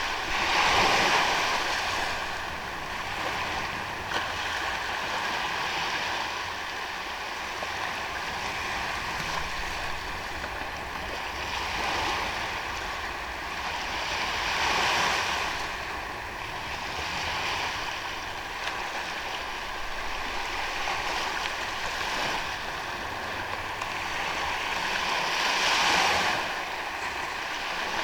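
Sea waves washing onto a sandy beach, the surf swelling and easing every few seconds, with a few stronger surges, one about a second in and one near the end.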